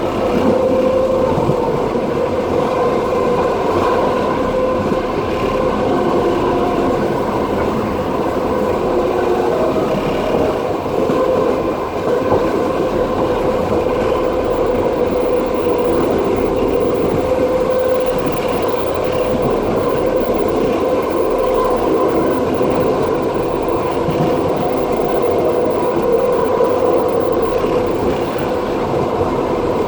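Passenger train carriage running along the track: a steady rumble of wheels on rails with a continuous ringing hum of tones over it.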